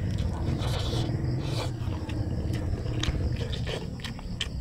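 Close-up chewing of squid adobo and rice: short wet mouth clicks and smacks scattered through, over a steady low rumble.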